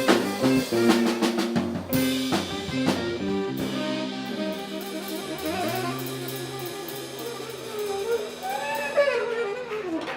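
Live band with drum kit and saxophone: sharp drum hits over the first few seconds, then a held chord with a wavering saxophone line over the last couple of seconds.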